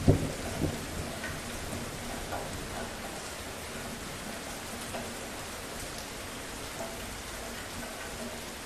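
Steady rainfall. In the first second a rumble of thunder ends in two sudden loud peaks, then fades, leaving only the even hiss of the rain.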